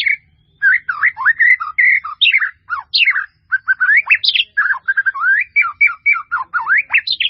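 White-rumped shama (murai batu) singing a rapid, varied song of quick rising and falling whistled notes and short trills, packed with mixed-in phrases. The song breaks off suddenly near the end.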